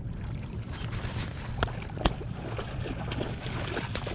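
Wind rumbling steadily on the microphone, with a run of short sharp clicks and knocks. Two louder ones come about a second and a half and two seconds in.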